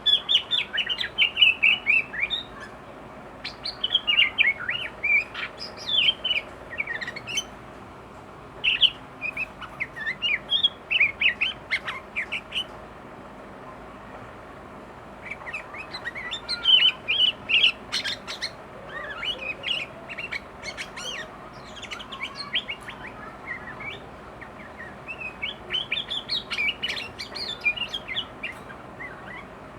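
Sooty-headed bulbul (kutilang) singing agitatedly in bursts of rapid, varied chirps and warbled phrases, with short pauses between bursts. This is the fired-up song in which the bird pours out its 'isian', phrases it has learned from other birds.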